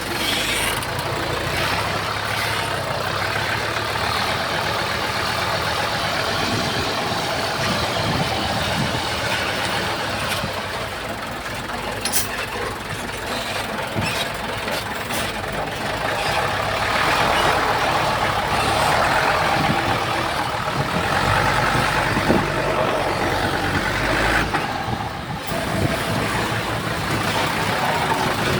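Heavy diesel earthmoving machines running at a fill site, a bulldozer and dump trucks working together. A few sharp knocks come around the middle, and the engine noise swells louder for several seconds after that.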